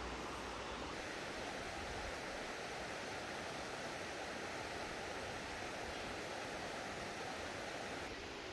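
Mountain stream water rushing steadily over rocks, with a slight change in its character about a second in and again near the end.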